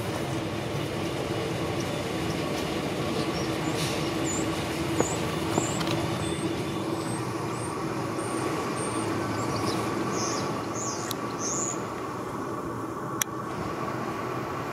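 Renfe Rodalies double-deck electric commuter train running through the station: a steady rolling rumble of wheels on rail with a humming motor tone, and a few sharp clicks.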